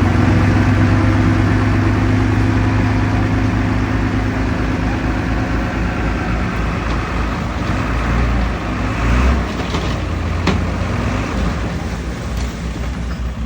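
Heavy diesel engine of earthmoving machinery running steadily, its low drone easing off after about six seconds, with a single sharp knock near ten seconds.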